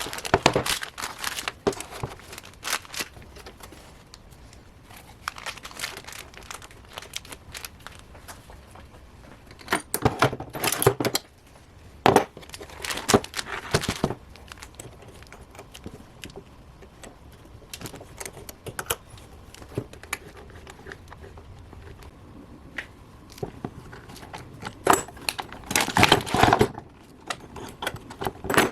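Hand work at a bench: bursts of rustling and crinkling with scattered light clicks and metallic clinks, loudest in three spells, with quieter stretches between.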